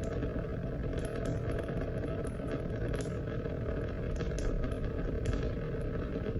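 Steady rain: a dense, even rush of water with many sharp drops spattering throughout.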